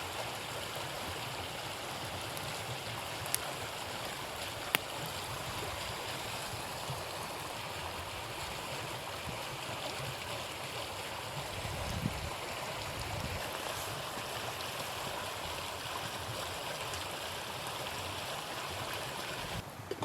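Steady rushing of a river flowing past the camp, with two sharp clicks about three and five seconds in.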